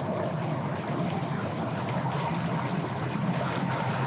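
Motorboat and personal watercraft engines running steadily on the water, a low hum under a haze of water and wind noise.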